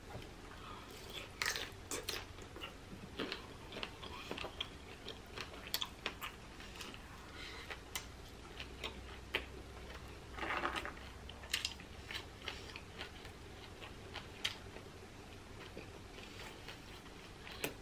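Quiet mouth sounds of eating a whole shell-on shrimp: biting and chewing, with irregular short clicks and crackles of the shell.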